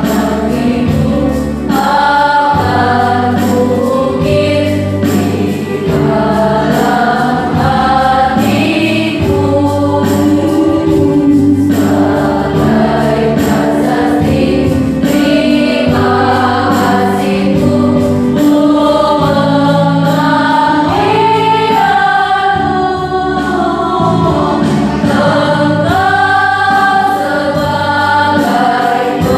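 A choir singing a song at rehearsal, several voices together over held low notes that change every couple of seconds.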